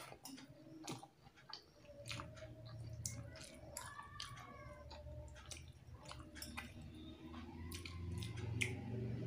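Close-up mouth sounds of eating rice and fish curry by hand: wet chewing and lip smacks, many short clicks. A faint drawn-out whining tone sounds around four seconds in and again near the end.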